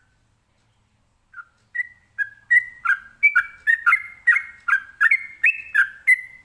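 Yellow-vented bulbul (trucukan) singing: a lone note, then a fast run of bubbly, whistled notes at about three a second that carries on to near the end.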